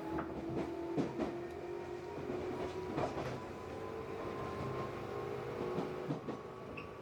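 Tobu 8000 series electric train running, heard from aboard. The traction motors hum with a slowly rising pitch, and the wheels clack over rail joints every second or two.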